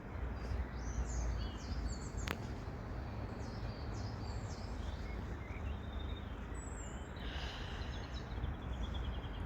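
Small birds chirping, with a quick run of repeated chirps near the end, over a steady low rumble.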